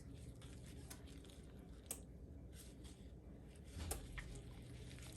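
Faint wet squishing of a raw whole chicken being set into and handled in an oily marinade with potatoes and onions, with two light knocks about two and four seconds in.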